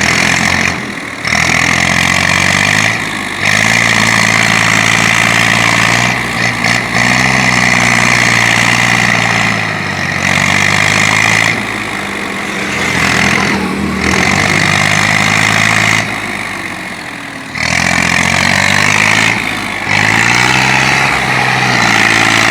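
Diesel tractor engine running, its pitch rising and falling as the throttle changes, with several short drops in the sound.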